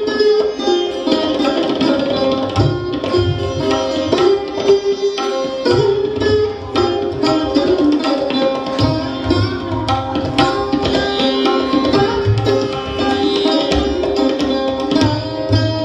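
Hindustani classical music: a plucked sitar and sarod melody over tabla accompaniment. The tabla's deep bass strokes come in a couple of seconds in and recur through the phrase.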